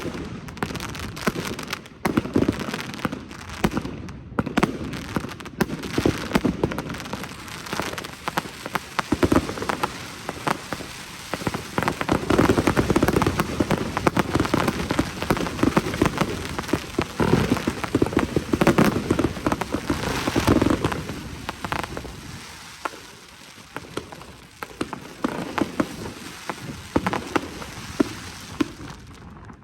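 Evolution Snowstorm 2.0 firework crackling: a dense, continuous mass of small pops and crackles with a few sharper bangs early on, thinning out over the last several seconds.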